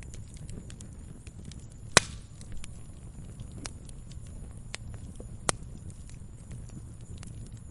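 Wood fire burning in a fireplace with a steady low rumble and scattered crackles, and a loud sharp pop about two seconds in and another smaller pop about five and a half seconds in.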